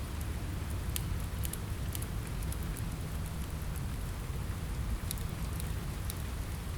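Steady rain on a window mixed with a crackling log fire: a constant rain hiss over a low rumble, with short sharp crackles and pops scattered throughout.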